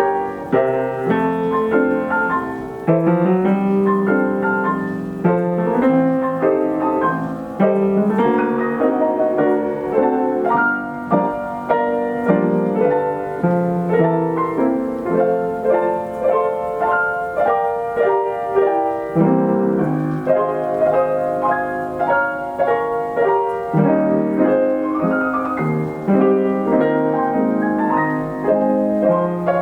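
Steinway piano played by its Ampico model B reproducing mechanism from a paper roll, running through a popular-song arrangement of melody over steady chords.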